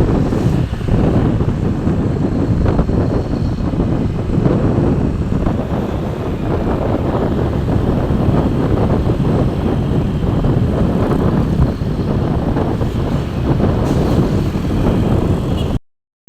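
Steady vehicle and road noise with wind buffeting the microphone, cutting off abruptly near the end.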